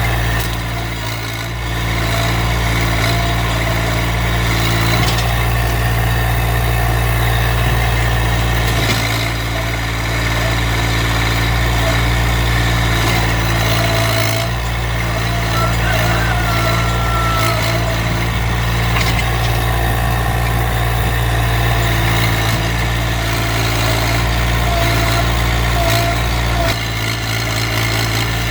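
Massey Ferguson GC1710 subcompact tractor's three-cylinder diesel engine running steadily while the front loader works against a stump, with a few brief higher-pitched whines over it.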